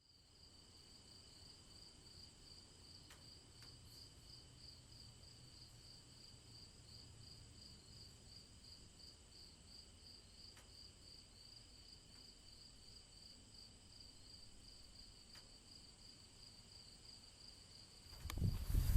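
Crickets chirping steadily in a quick, even pulse, faint and high-pitched. About a second before the end, a sudden burst of loud low rumbling noise comes in.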